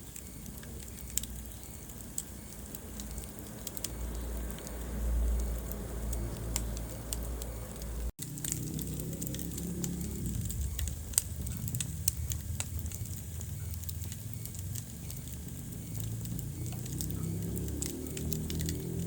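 Wood fire burning in a fireplace: scattered crackles and sharp pops over a low, steady rumble of flames. The sound cuts out for an instant about eight seconds in, and one pop stands out a little after that.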